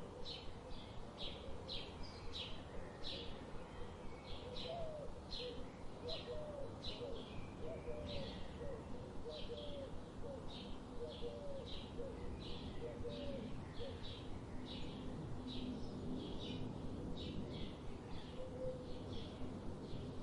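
A bird chirping over and over, about two short high chirps a second, with a softer, lower run of short notes between about 4 and 10 seconds in.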